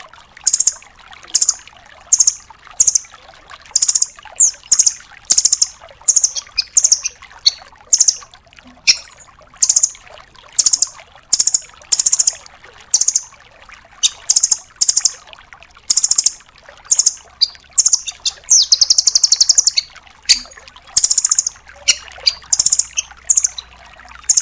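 Velvet-fronted nuthatch calling: short, high, rapid trills repeated about once or twice a second, with one longer trill about three-quarters of the way in. A faint trickle of water runs underneath.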